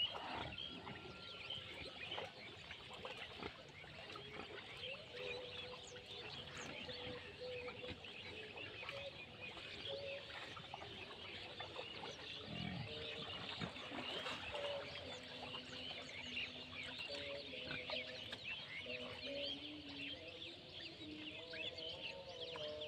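Outdoor ambience of many small birds chirping throughout, with faint held lower-pitched calls or tones that come and go and shift in pitch.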